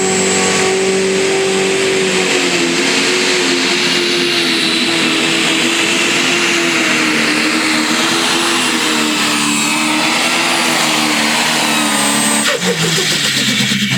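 Turbocharged diesel engine of a 10,000-pound pro stock pulling tractor running flat out under the sled's load, its note wavering and sagging slowly, with a high turbo whistle above it. About twelve and a half seconds in the note drops off sharply as the run ends.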